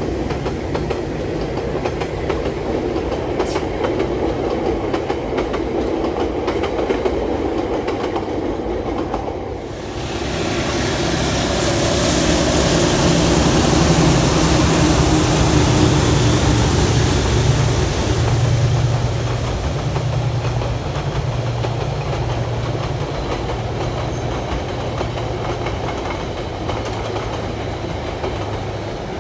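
Diesel-hauled passenger train passing close by: carriage wheels clattering over the rail joints. About ten seconds in the sound turns louder as a pair of DJ-class diesel-electric locomotives goes by with a low, beating engine note, which then eases as the carriages follow.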